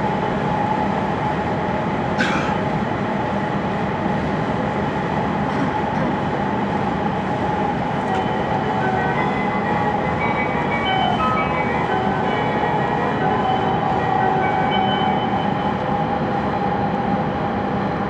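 E5 series Shinkansen running at speed through a tunnel, heard from inside the passenger cabin: a steady rumble of running noise with a constant hum. A sharp click sounds about two seconds in, and from about halfway faint high tones come and go.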